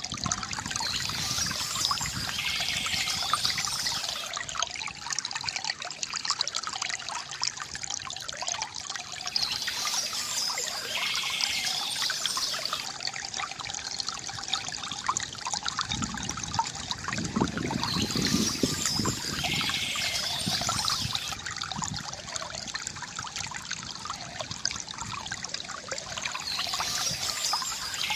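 Water trickling and splashing steadily from a bamboo fountain spout, with short bursts of bird chirping coming back about every nine seconds and a deeper gurgle swelling briefly past the middle.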